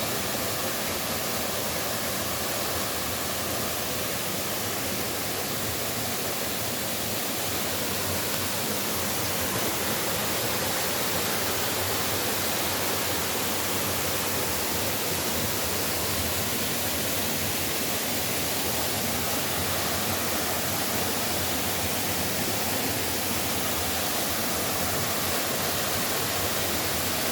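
Waterfall: falling water making a steady, even rushing noise, a little louder from about ten seconds in.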